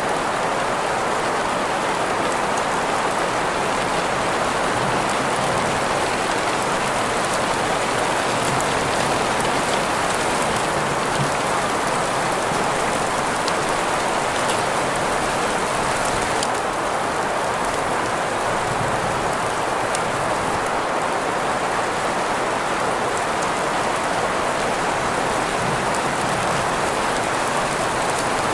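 Steady rain mixed with green noise: an even, unchanging hiss centred in the middle range, with faint scattered drop ticks.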